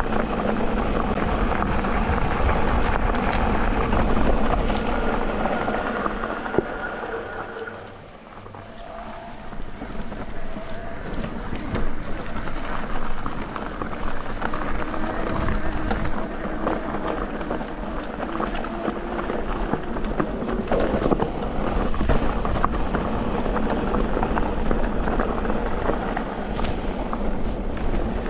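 Electric mountain bike ridden over a dirt trail: the motor whine over tyre rumble and the rattle of the bike, dropping away briefly about eight seconds in.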